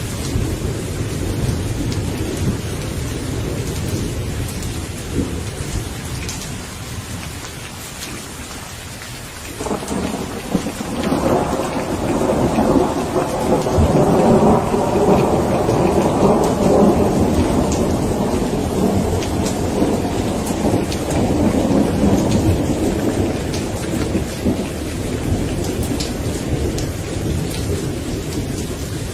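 Steady rain with thunder rumbling. About a third of the way in a long peal of thunder breaks, swells to its loudest and rolls away slowly.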